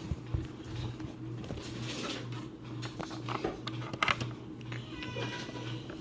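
A cat meows once, briefly, about five seconds in, over scattered small clicks and knocks and a low steady hum.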